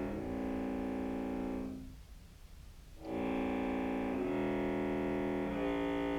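Contrabass clarinet playing long held low notes through fully wet reverb and effects pedals, stepping from pitch to pitch, with a break of about a second a couple of seconds in. The Meris Enzo synth is failing to track the notes and is not doing anything.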